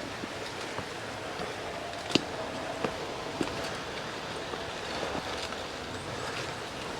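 G-scale model train running along garden railway track: a steady rolling noise with a faint motor whine and a few sharp clicks, the loudest about two seconds in.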